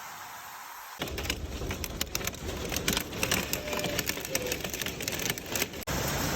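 Storm noise: about a second of steady hiss, then gusty wind buffeting the microphone with a low rumble and many sharp cracks and clatters. Just before the end it cuts abruptly to a steady rushing noise.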